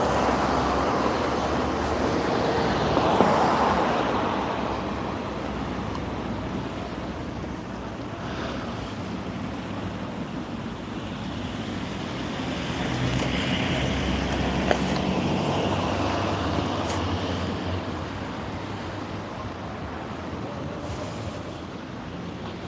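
Road traffic: motor vehicles passing by, the noise swelling and fading about three seconds in and again midway through.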